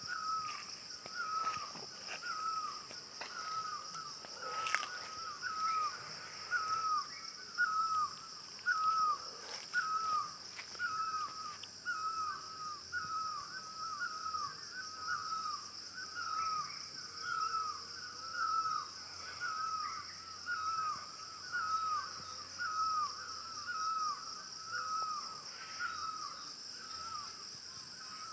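A bird repeating one short, hooked call over and over, about once every 0.7 seconds, over a steady high insect drone.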